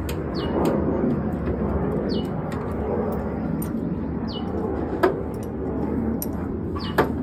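A bird's short high call, falling in pitch, repeated about every two seconds over steady background noise, with two sharp clicks in the second half.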